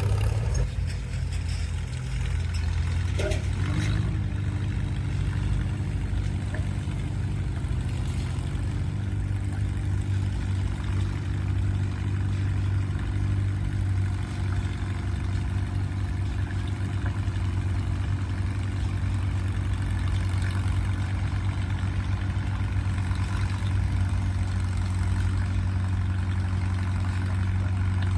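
Antique farm tractor engine running steadily with a deep, even drone, with a brief burst of clatter about three seconds in.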